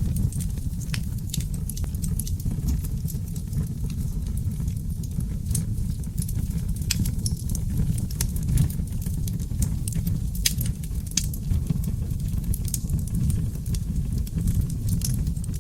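Wood fire of seasoned oak logs burning in a fireplace: a steady low rumble with many scattered sharp crackles and pops.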